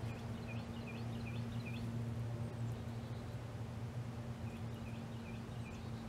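A bird calling in a quick run of about five short chirps, then about four more near the end, over a steady low hum.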